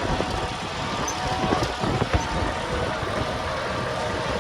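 Strong wind buffeting the microphone in uneven gusts, over a tractor engine running steadily.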